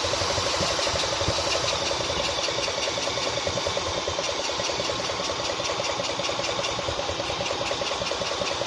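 Tractor engine running steadily at idle, with a fast, even firing pulse.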